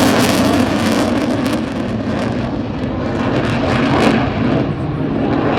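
Eurofighter Typhoon's jet engines, a loud rushing noise from a jet flying its display; the high hiss fades after about a second and a half as it moves away.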